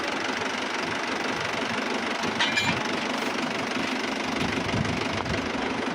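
Mahindra tractors' diesel engines running steadily. There is a brief high-pitched sound about two and a half seconds in.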